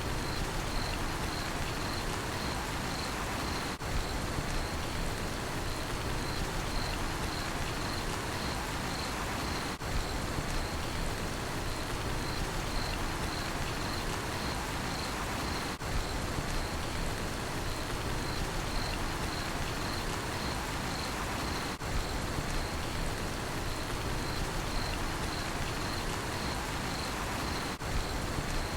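Steady rain falling, with a cricket chirping in an even, unbroken rhythm over it. The sound dips briefly about every six seconds.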